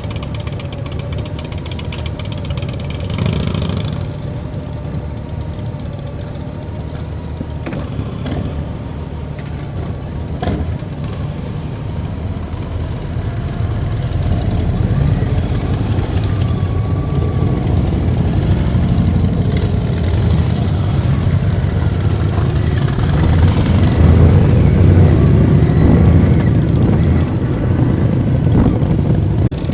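Custom motorcycle engine running, with a steady low drone that grows louder through the second half.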